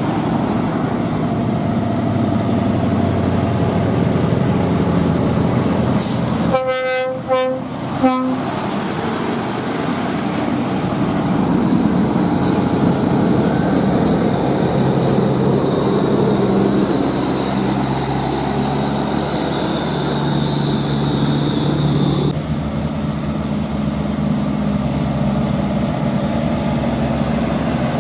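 Heavy diesel truck running steadily on the road, with a quick run of short horn toots about seven seconds in.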